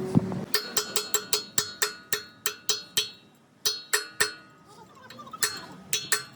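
Hammer blows on steel, each strike ringing, coming several a second in three bursts with short pauses between them.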